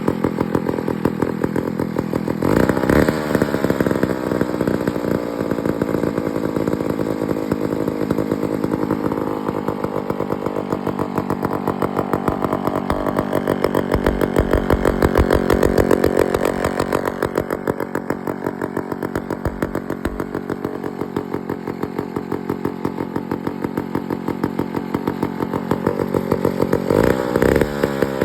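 McCulloch 99 two-man chainsaw's two-stroke engine running steadily after being brought back to life, blipped up in revs briefly about three seconds in and again near the end.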